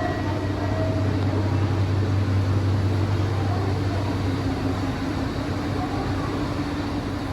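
Steady low rumble of street traffic: a vehicle running close by, swelling a little and then easing off.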